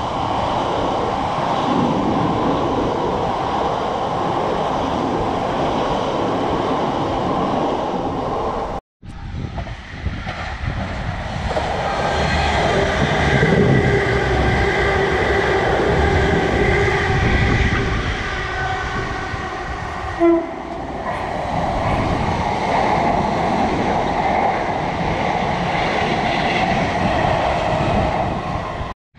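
Electric multiple-unit trains passing close by at speed, wheels running on the rails. First comes a red South Western Railway Class 455, then, after a cut, a Thameslink Class 700 whose traction equipment gives a steady whine. A brief sharp note comes about twenty seconds in.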